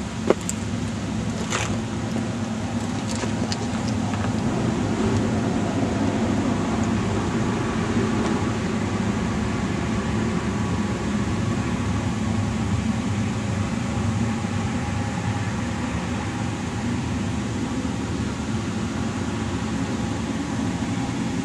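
Steady low hum and rush of a running vehicle, with one sharp click about a third of a second in.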